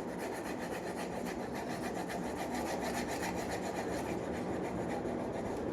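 Pencil shading back and forth on paper: a steady, scratchy rubbing made of many quick strokes, as an area is coloured in fully.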